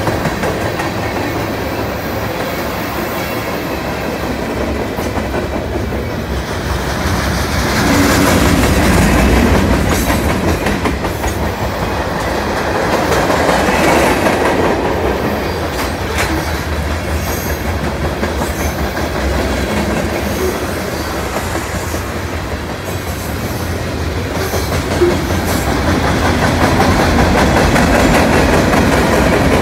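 Freight train's tank cars and covered hopper cars rolling past close by: a steady rumble and clatter of steel wheels on the rails, swelling and easing as the cars go by.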